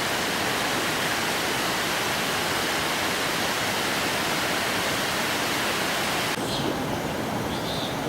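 Waterfall's falling water making a steady, dense rushing noise. It cuts off abruptly about six seconds in, giving way to a quieter background with a few faint high chirps.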